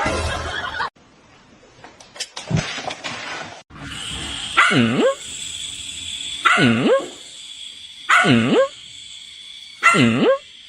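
A dog barking four times at an even pace, one bark every one and a half to two seconds, starting about four seconds in, over a steady hiss. A short burst of noise comes before it in the first second.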